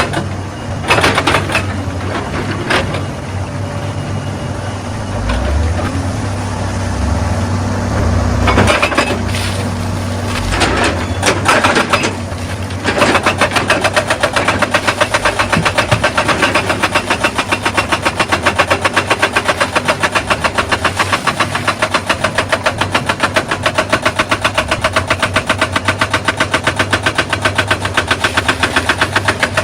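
Excavator engine running, with several sharp clatters of rock and metal in the first half. About halfway through a rapid, steady hammering starts and keeps going: a hydraulic breaker pounding stone.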